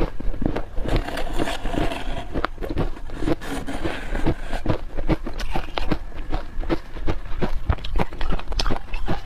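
Freezer frost crunching and squeaking as it is dug out with a spoon and eaten: a rapid, irregular run of short crunches.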